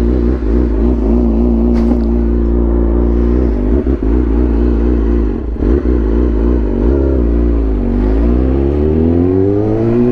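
Sport motorcycle engine running at steady revs, then the revs fall about eight seconds in and climb again as the bike accelerates.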